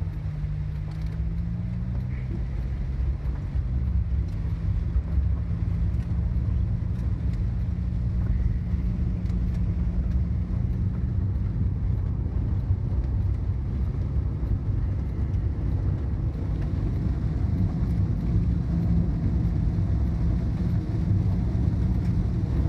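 Car engine and road noise heard from inside the cabin while driving in rain: a steady low rumble, with the engine pitch rising and shifting in the first few seconds as the car pulls away, then running evenly. Faint ticks of rain hit the car throughout.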